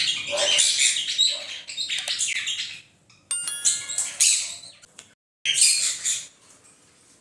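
Pineapple conures chirping in quick, high calls, in two spells with a pause between them. A short run of chime-like tones sounds about three seconds in.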